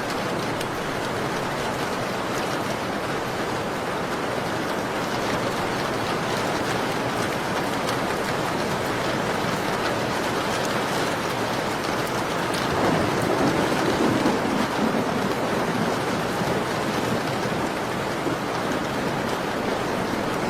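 Steady rain falling, with scattered small crackles from a wood fire. About two-thirds through, the sound swells louder and deeper for a couple of seconds.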